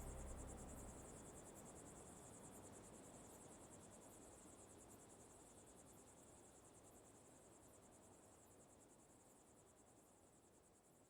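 Faint insect chirping, a high, evenly pulsing trill, with soft background hiss; the whole slowly fades out.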